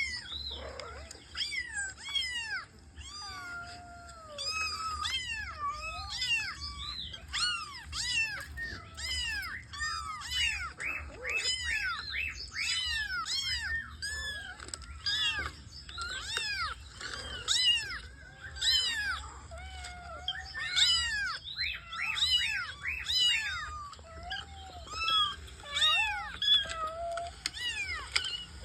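Several kittens mewing over and over, a dense run of short, high-pitched, overlapping mews.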